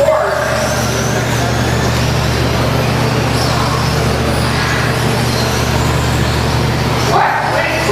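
Radio-controlled stock-class trucks racing around the track: a steady haze of electric motor whine and tyre noise, with faint high whines rising and falling as the trucks speed up and slow down, over a steady low hum.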